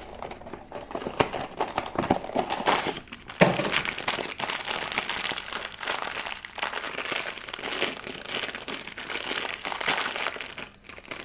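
Funko Mystery Mini blind-box packaging being opened by hand: the cardboard box and the wrapping inside crinkle and crackle continuously, with many small clicks and one sharper snap a few seconds in.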